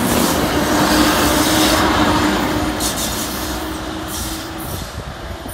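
NJ Transit electric train of Comet coaches passing close at speed: the rush of wheels on rail, loudest in the first couple of seconds, fading as the ALP-46-series locomotive at the rear pulls away. A steady low hum runs under it and drops out about four and a half seconds in.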